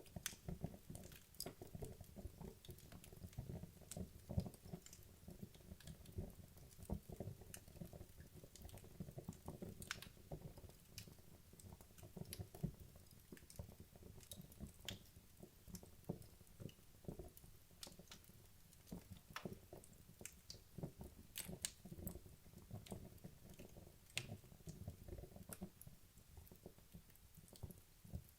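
Wood logs burning in a fireplace: a faint, dense low crackle with scattered sharper pops, several a second.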